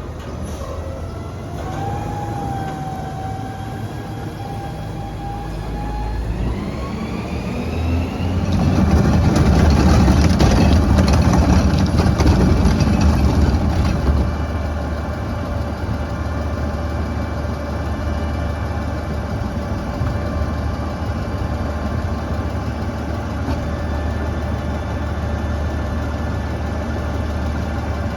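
Autocar ACX garbage truck with a Heil front-loader body, its diesel engine revving up with a rising whine and running hard, loudest about eight to fourteen seconds in, then holding steady at a raised speed, as the truck revs to drive its hydraulics.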